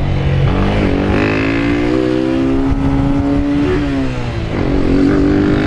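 Single-cylinder four-stroke engine of a Honda CG 160 Fan motorcycle accelerating under the rider. Its pitch climbs about a second in and holds, then drops briefly just before four seconds, like a gear change, and rises again.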